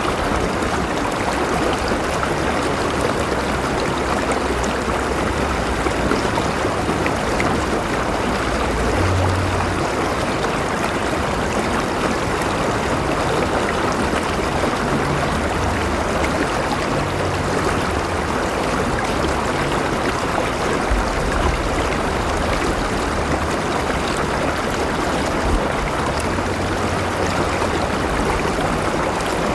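River water flowing and gurgling in a steady, continuous rush, with some low rumble beneath.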